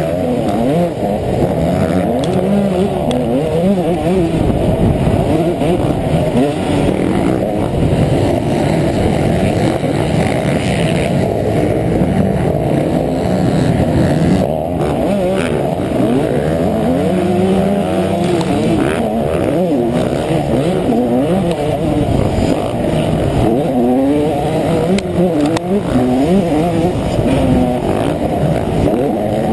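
Honda CR125 two-stroke single-cylinder motocross bike engine revving hard and dropping back over and over as it is ridden round the track, its pitch climbing and falling with throttle and gear changes.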